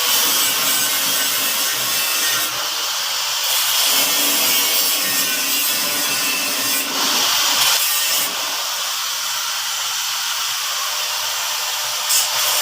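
Power tool working on metal: a continuous grinding noise that shifts in tone several times as the tool's load changes.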